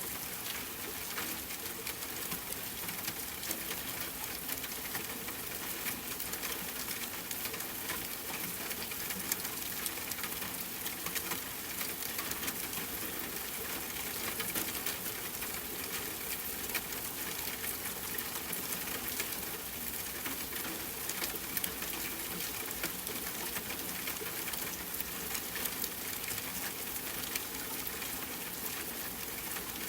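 Steady rain pattering on a tent, mixed with the fine crackle of a campfire: a constant hiss dotted with many small ticks and pops.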